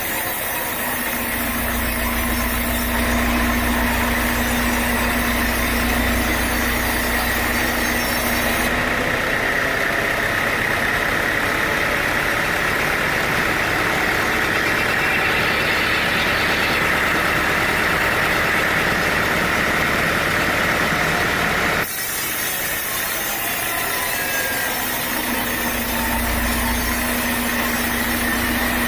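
Sawmill machinery running with a steady mechanical drone and a held high whine. The sound changes abruptly about three-quarters of the way through.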